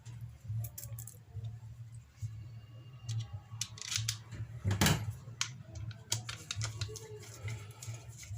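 Clicks and light clatter of hand tools and small metal parts as a motorcycle starter motor is handled and reassembled by hand, with one louder knock about halfway through, over a steady low hum.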